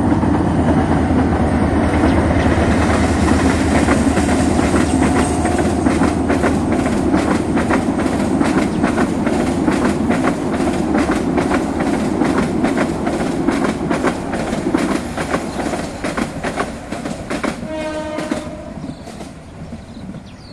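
Train passing close by, its wheels clattering over the rail joints in a fast, steady run of clicks over a heavy rumble. Near the end a horn sounds for about a second and a half while the clatter fades away.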